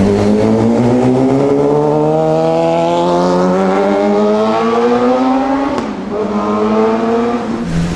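Sport motorcycle engine accelerating hard, its pitch climbing steadily for about six seconds, dropping sharply at an upshift, then climbing again before another shift near the end.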